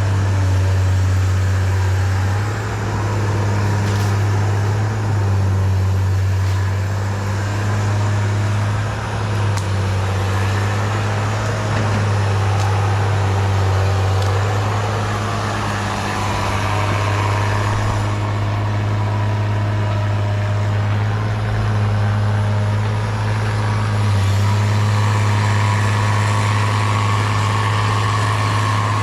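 Diesel engine of a Cat 318B excavator running steadily, its low drone shifting slightly every few seconds as the load changes.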